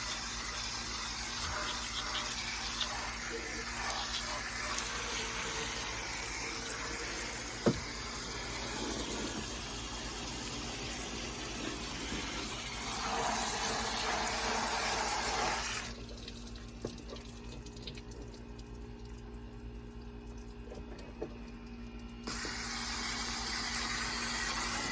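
Garden hose nozzle on its shower setting spraying water over a car's engine bay, rinsing off the cleaner. The spray cuts out for several seconds past the middle, then starts again.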